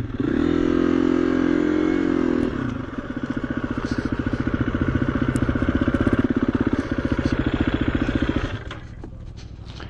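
KTM EXC-F 350 single-cylinder four-stroke dirt bike engine ridden off at a steady, slightly raised rev for about two and a half seconds, then chugging evenly at low revs. The engine drops away near the end.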